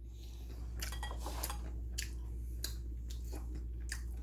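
A person eating: soft chewing with scattered light clicks of a spoon against a bowl.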